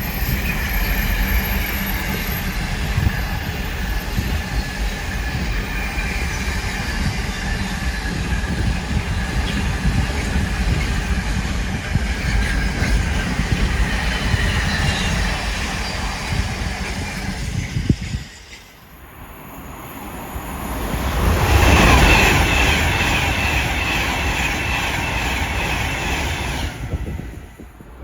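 A train running past on the railway: a steady rumble of wheels on rails with a high whine drifting above it. About two-thirds of the way in the sound cuts off suddenly, then swells again to its loudest as a train draws close.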